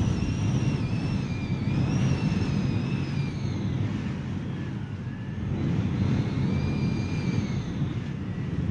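Hurricane wind blowing hard with a deep, steady rumble, and a high wavering whistle riding over it that fades about halfway through and comes back briefly near the end.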